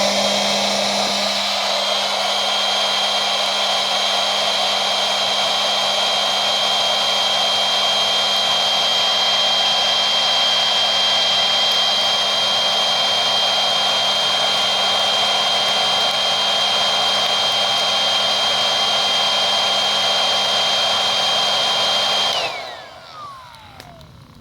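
Electric air pump running steadily at full speed, blowing air into a campfire to get it burning. It is switched off about 22 seconds in and winds down with a falling whine.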